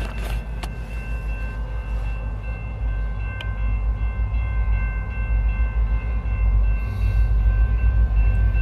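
Freight train led by two Canadian National SD75I diesel locomotives, their EMD 710 two-stroke V16 engines giving a deep rumble that slowly grows louder, with a few steady high tones ringing over it.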